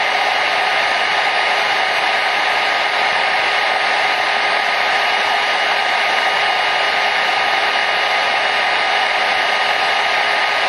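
Hair dryer running steadily: a constant blowing rush with a faint steady motor hum and whine in it.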